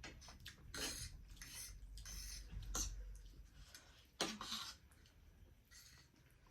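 Cutlery scraping and clinking against a dish while eating, in several short bursts, the loudest about four seconds in.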